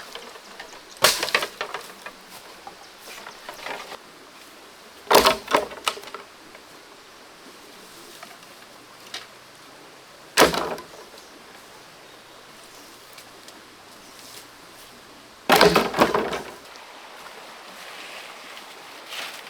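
Four short bursts of sharp knocking or clattering, spaced about five seconds apart, over a faint steady background noise.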